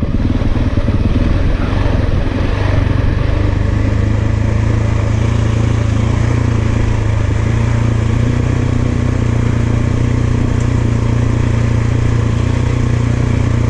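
Large single-cylinder enduro motorcycle engine running at a steady, unchanging speed.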